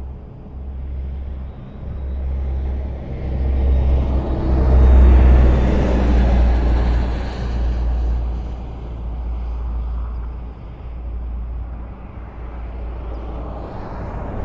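Highway traffic: a steady low rumble of vehicles with tyre noise, swelling as one vehicle passes close, loudest about five seconds in, then fading back.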